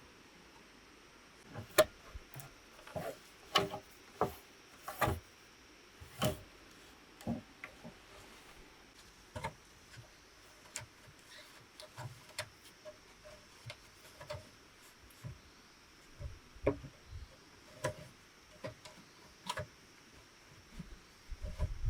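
Irregular sharp knocks and taps on bamboo, roughly one a second, with the loudest strokes in the first half, as the bamboo is worked by hand.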